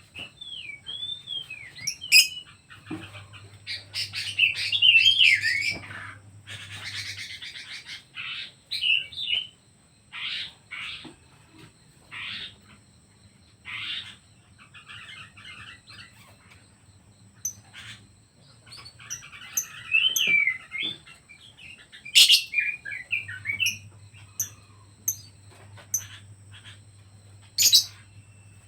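Pet birds chirping and calling in short whistled phrases with gliding notes, broken by a few sharp, loud calls.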